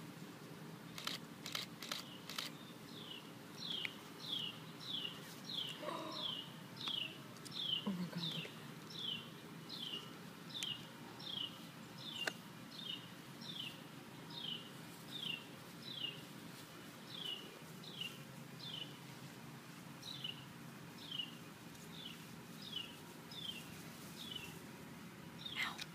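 A bird calling over and over, a short downslurred chirp repeated about one and a half times a second at an even pace.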